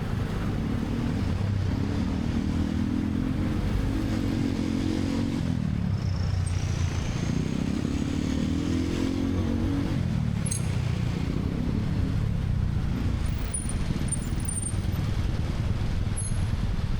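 Motorcycle taxi's engine heard from the pillion seat, pulling up in pitch and easing off twice as it accelerates and slows in traffic, over a steady low rush of road and wind noise.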